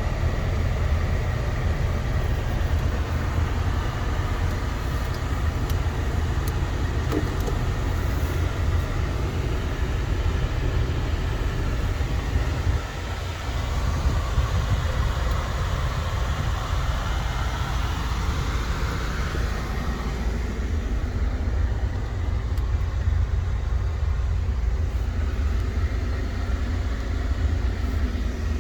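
1992 Buick Riviera's 3.8-litre V6 running steadily after a cold start, a continuous low rumble with no revving.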